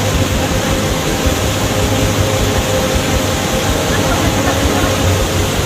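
Steady rushing roar of a waterfall, picked up on a phone-type recording, with faint voices under it.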